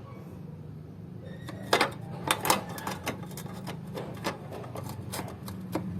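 Irregular sharp metallic clicks and clinks of hand tools working the rusty mounting bolts of a car's washer tank, beginning just under two seconds in, over a steady low hum.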